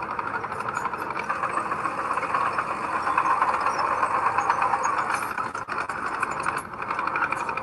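Heavy earthmoving machine's diesel engine running steadily, with a fast, even pulsing clatter.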